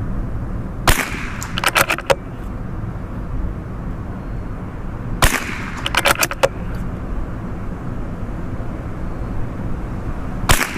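Three .22 LR shots from a CZ 457 bolt-action rifle, about four and a half seconds apart, the first two each followed by a quick run of clicks as the bolt is cycled. Steady wind buffets the microphone throughout.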